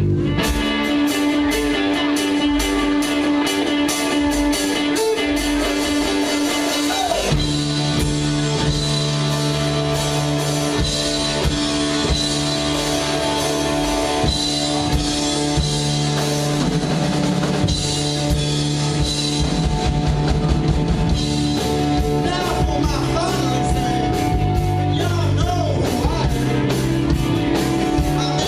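Live rock band playing a song with drum kit, guitar and singing. The low end is missing for about the first seven seconds, then the bass comes in under the steady drum beat.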